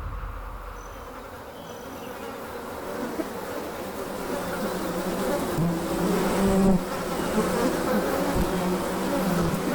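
Flies buzzing in flight, a steady wingbeat hum that grows louder over the first half.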